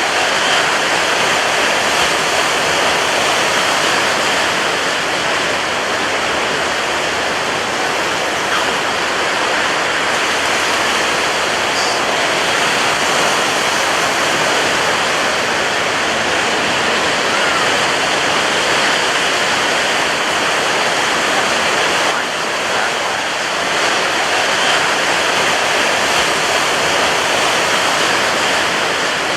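Ocean surf breaking on a beach: a loud, dense, steady wash of waves with little rise and fall, easing briefly about three-quarters of the way through.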